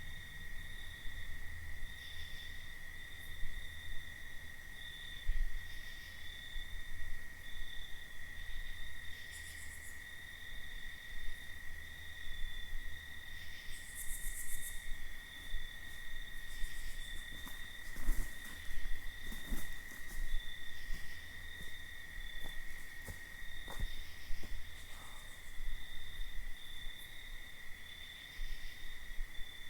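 Crickets trilling steadily in the night, one unbroken high note with a faint pulsing above it. A few sharp clicks stand out past the middle.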